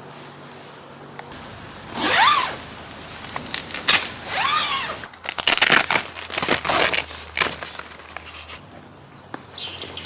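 A series of short rustling, scraping noises, irregular and starting about two seconds in, two of them with a rising-and-falling squeak.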